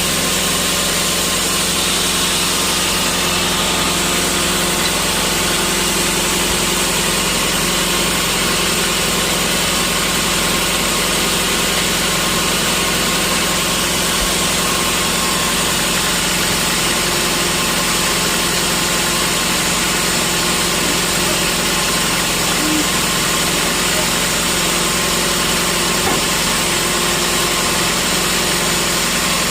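Sawmill machinery running steadily: a constant engine-like drone that holds one pitch throughout.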